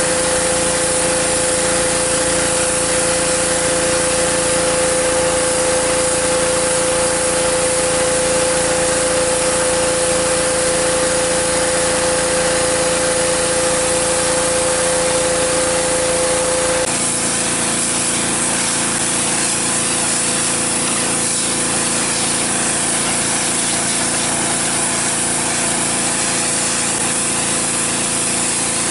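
Husqvarna PW 3200 gas pressure washer with its Briggs & Stratton engine running steadily under the hiss of the high-pressure spray. The sound changes abruptly about two-thirds of the way through, losing a strong steady hum and some of its depth.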